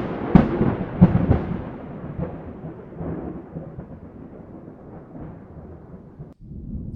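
A loud sudden boom with low rumbling, with two more crashes within about the first second, dying away slowly over some six seconds and then cutting off abruptly.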